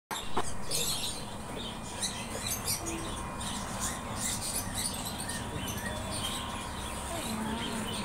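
Small cage birds chirping and twittering in short, irregular calls over a steady background hum.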